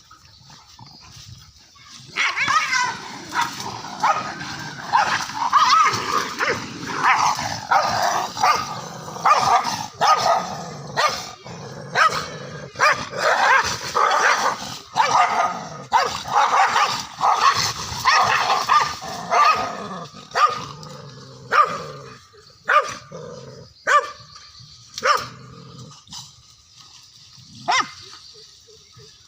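Indian street dogs fighting: dense, overlapping snarling and barking that begins about two seconds in, then breaks into separate barks over the last several seconds.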